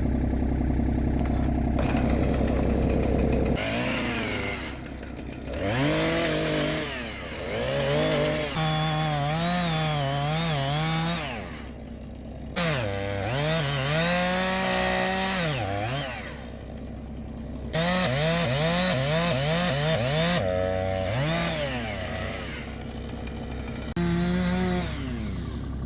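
Two-stroke chainsaw cutting into a standing tree, its engine pitch rising and dropping over and over as the chain bites and is eased off. A low, steady engine idle is heard under it for the first few seconds.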